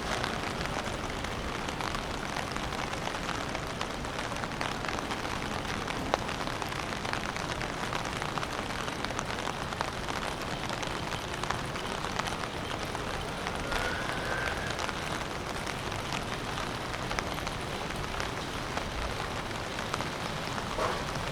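Steady rain, a dense patter of drops hitting surfaces, with one sharp click about six seconds in.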